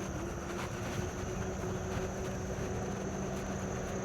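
Riding noise of an e-bike on a paved path: tyre and wind noise under a steady low hum with a second, slightly higher tone, holding even throughout.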